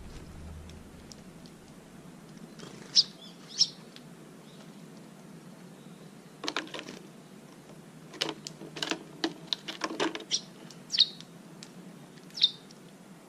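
A bird chirping in a few short, high calls, with a run of sharp clicks or taps in the middle.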